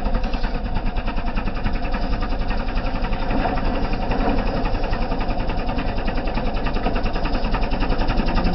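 John Deere tractor's diesel engine running with a steady, rapid chugging.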